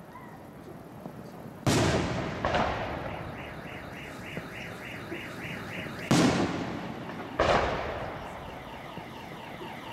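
Aerial firework shells bursting: four sharp, heavy reports, two about a second in and two more around six to seven seconds in, each trailing off in a long echoing rumble. Between the bursts, a high tone pulses about three times a second.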